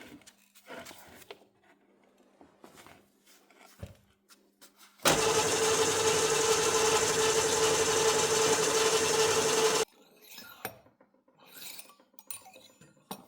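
Electric drill running steadily for about five seconds while drilling a hole for a grease nipple, with a strong steady motor whine, then cutting off suddenly. Faint clicks and handling sounds before and after.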